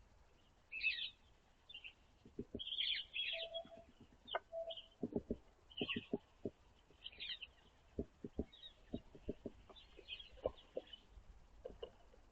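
Small songbirds at a winter feeder giving short, scattered chirps, mixed with many light taps of beaks pecking at food.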